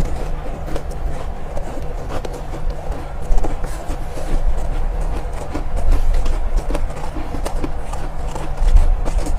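Close-miked chewing of soft, powdery ice: an irregular run of small crunches over a steady low rumble.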